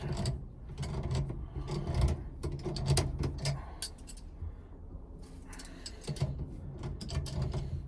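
Irregular metal clicks and clinks as a steering-column lock-plate compressor tool is loosened with channel-lock pliers.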